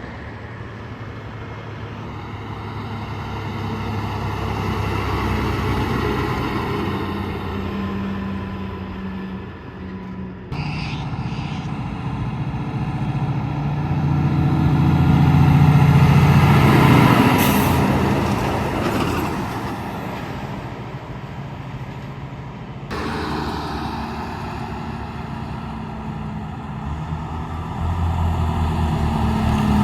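Semi trucks driving past one after another, diesel engines and tyre noise swelling and fading, loudest about halfway through. A brief hiss follows just after the loudest pass.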